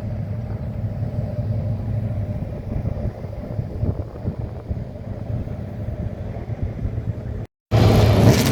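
Steady low vehicle rumble. After a brief cut near the end, a louder, brighter engine sound comes in.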